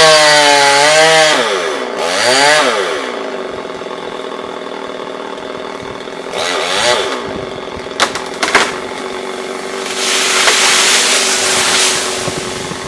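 Chainsaw engine revving up and dropping back to idle several times, with two sharp knocks about eight seconds in, then a louder, rasping stretch of full-throttle running near the end.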